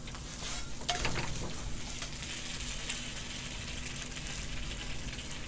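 Seafood pancake (haemul pajeon) frying in oil in a frying pan on a portable gas burner, giving a steady sizzle as it is crisped. A couple of light clicks come about a second in.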